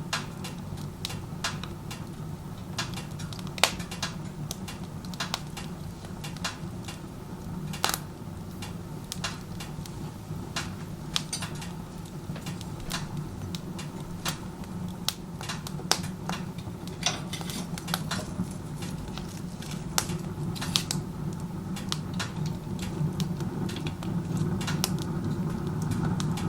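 Wood fire crackling and popping with irregular sharp snaps in a wood stove run with its door open like a fireplace, over a steady low rumble of strong chimney draft pulling air through the firebox. The rumble swells a little near the end.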